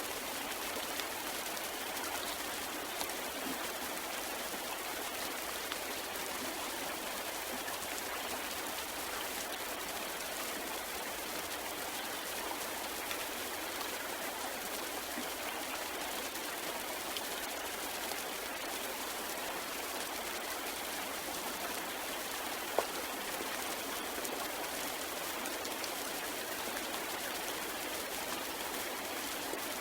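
Steady rain falling, an even hiss with scattered drops ticking, and one sharper drop about three-quarters of the way through.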